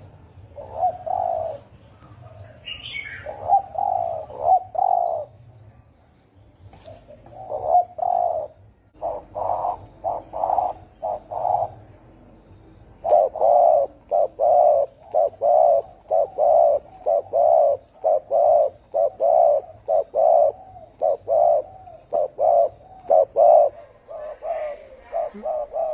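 Spotted dove cooing, deep and hoarse-voiced: short coo notes in broken phrases, then from about halfway a long, evenly spaced run of coos. A brief higher bird chirp comes about three seconds in.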